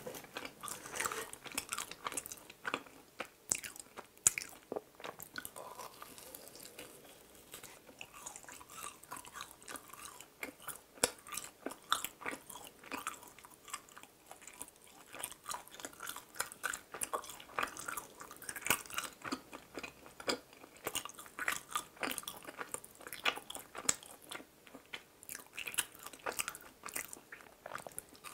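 Close-miked chewing and biting of small fried donuts: a dense run of irregular crisp crackles and mouth clicks.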